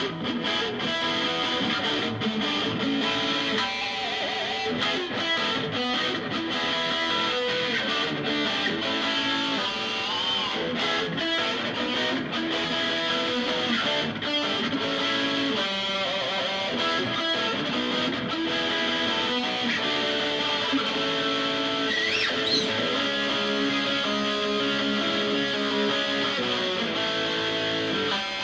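Guitar music from an informal jam: strings strummed and plucked with no break.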